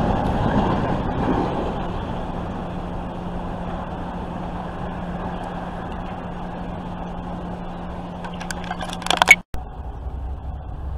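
Tail end of an intermodal freight train running past on the rails, its rumble fading away over the first couple of seconds into a steady low hum. Near the end comes a quick cluster of sharp clicks, the loudest moment, then the sound cuts off abruptly.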